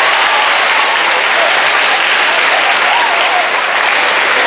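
Large audience of schoolgirls applauding and cheering in a hall after a class is announced as a winner, with a few voices shouting over the clapping.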